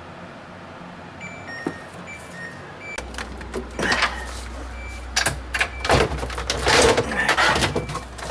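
A few short, faint electronic beeps from a Samsung refrigerator's control panel as forced mode is set. Then, about three seconds in, a low hum starts and plastic parts are clicked, knocked and rattled by hand.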